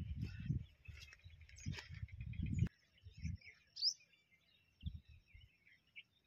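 Birds chirping in a dry rural landscape: scattered short calls, one bright rising chirp near the middle. For the first couple of seconds a low rumble on the microphone covers them, then it cuts off suddenly.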